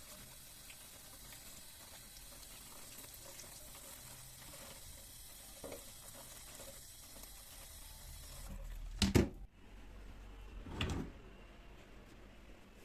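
Kitchen tap water running steadily into a sink, shutting off about two-thirds of the way through, followed by two loud knocks a couple of seconds apart.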